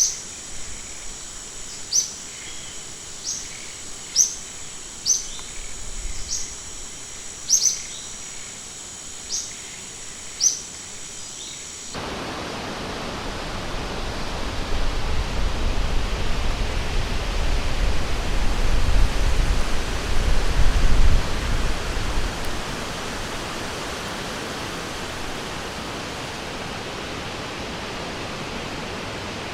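Forest ambience: a bird repeats short, high chirps roughly once a second over a steady high insect buzz. About twelve seconds in, this cuts abruptly to rushing river water, which swells louder with a deep rumble through the middle and then settles.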